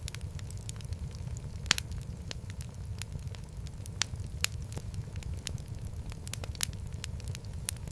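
Wood fire burning in a fireplace, a steady low rumble under frequent irregular crackles and pops, a few of them sharp and loud.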